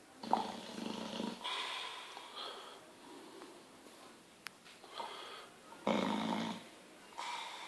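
Bulldog snoring: long noisy breaths in and out, one every second or two, loudest near the start and again about six seconds in.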